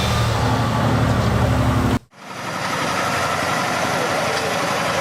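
Heavy truck diesel engine running with a deep, steady hum. About two seconds in the sound cuts out for a moment and switches to a different, steadier engine sound with less bass.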